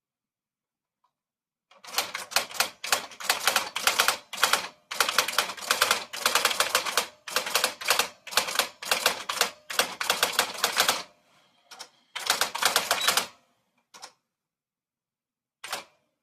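Typewriter being typed on: rapid runs of key strikes for about nine seconds, a short pause, another brief run, then two single strokes.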